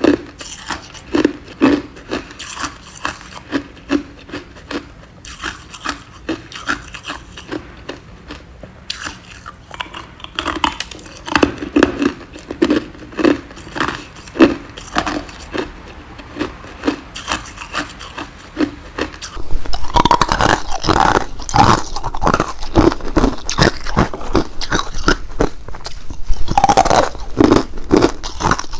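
Ice being chewed with a steady rhythm of crunching chews, about two a second. About twenty seconds in the crunching turns louder, sharper and denser.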